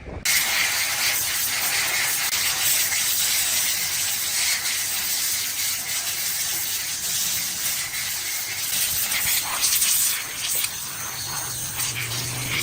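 A loud, steady hiss from a pressurised jet that starts abruptly, strongest in the high range.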